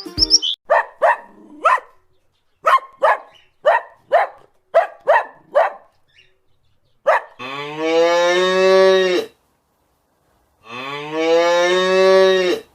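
Two long cow moos, each rising in pitch and then holding for about two seconds, after a quick run of a dozen or so short, sharp sounds.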